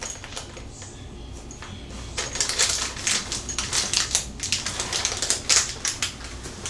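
Rapid, irregular clicking and rattling of small hard parts being handled, starting about two seconds in.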